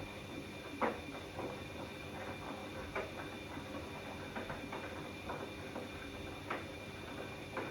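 Bosch Classixx 6 front-loading washing machine tumbling its wash during the heating phase of a 90-degree cottons cycle: the laundry and water slosh and knock irregularly as the drum turns, over a steady high whine.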